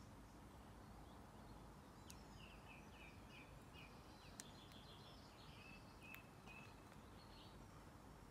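Faint outdoor ambience with a small bird singing a run of quick, repeated high chirps through the middle, and a few faint clicks.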